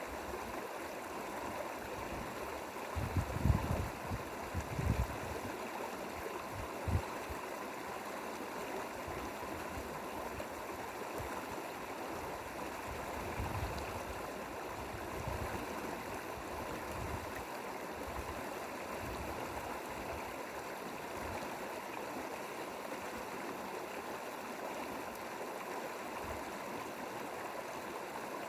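Mountain stream flowing over rocks: a steady rush of running water. A few brief low bumps stand out about three to five seconds in and once more shortly after.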